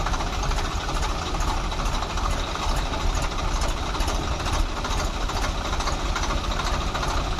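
Swaraj 744 tractor's diesel engine running steadily at a constant speed.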